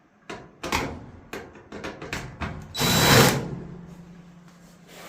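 Tool work on a dryer's back panel as its screws come out: a run of separate knocks and clicks, then a louder burst of about half a second near the middle, with a faint hum trailing after it.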